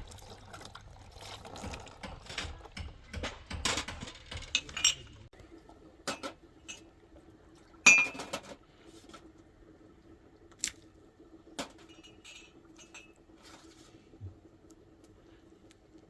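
Clinking and knocking of dishes being handled: a busy run of clinks and knocks for about five seconds, then scattered single clinks, the loudest about eight seconds in, over a faint steady hum.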